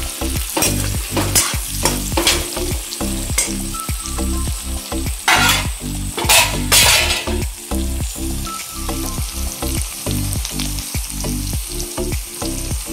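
Chicken pieces and onions sizzling in a kadhai (wok) while a spatula stirs and scrapes through them. A few louder strokes come around five to seven seconds in.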